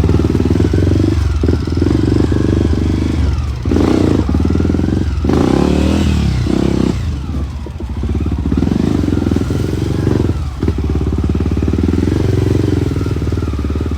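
Dirt bike engine running and revving hard, the throttle opening and closing repeatedly with several brief drops in revs.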